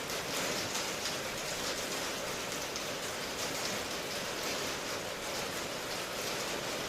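Steady rain falling, a dense even hiss of countless drops with fine pattering on surfaces.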